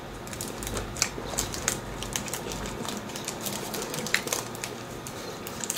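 Chewing a chocolate bar with crunchy Oreo cookie pieces inside: a run of irregular crunches and clicks.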